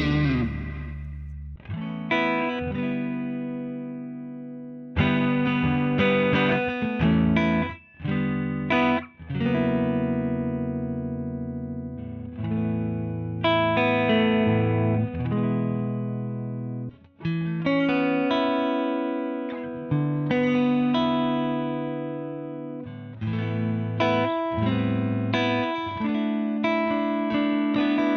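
Clean electric guitar played through a Wampler Ego 76 mini compressor pedal: chords struck every second or two, each ringing out and fading slowly, with a few short breaks between phrases.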